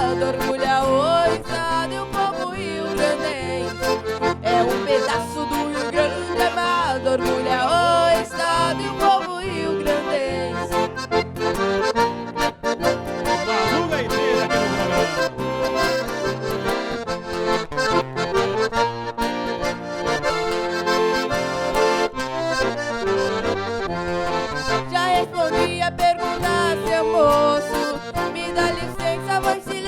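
Accordion playing a lively instrumental passage of a gaúcho song, with a bass line underneath.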